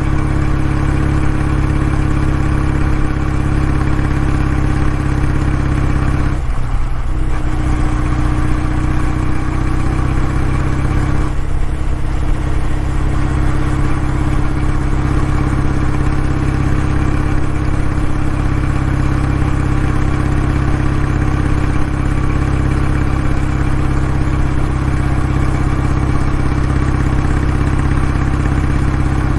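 Kawasaki W650's air-cooled parallel-twin engine running steadily through its exhaust, with a brief dip about six and a half seconds in and another about eleven and a half seconds in.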